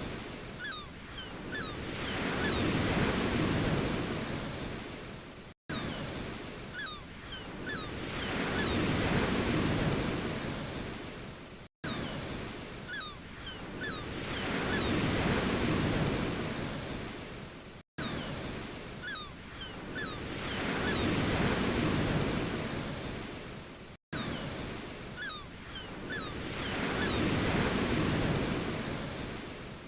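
Ocean waves washing in, each surge swelling and fading about every six seconds, with a brief cutout between surges where the recording loops.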